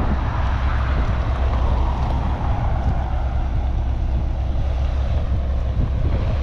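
Diesel engine of heavy earthmoving equipment running steadily, a constant low rumble with wind on the microphone.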